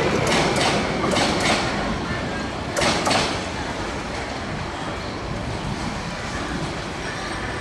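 Bangladesh Railway intercity passenger coaches rolling past, their wheels clacking over rail joints several times, loudest about three seconds in. After that the noise of the wheels on the rails drops and stays steady as the last coach moves away.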